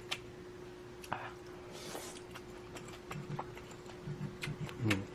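Eating sounds: sharp clicks of utensils against a bowl, then soft rhythmic chewing of ramen, ham and rice from about three seconds in. A faint steady hum lies under it.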